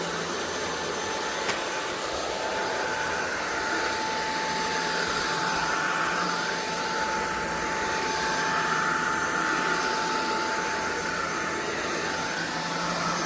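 SunSare X11 cordless stick vacuum running steadily: a rushing airflow noise with a steady whine over it, part of the hiss drifting gently up and down in pitch. A single click about a second and a half in.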